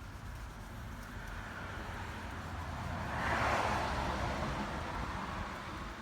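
A vehicle passing by: a noisy rush that swells to its loudest about halfway through, then fades.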